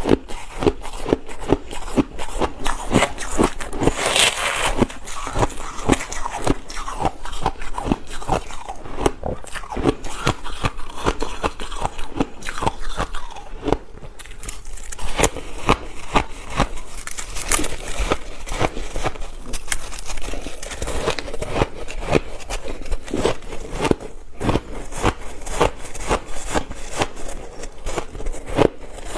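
A person biting and chewing ice close to the microphone: an unbroken run of crunches, several a second.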